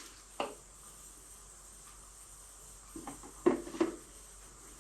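Quiet with a few light knocks and clicks: one about half a second in, then three close together around three to four seconds in.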